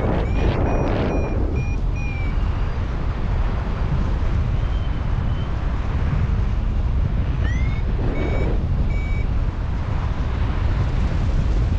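Paragliding variometer beeping in series of short electronic tones, a run in the first two seconds and another about eight seconds in, signalling that the glider is climbing in lift. Steady wind rumble on the microphone underneath.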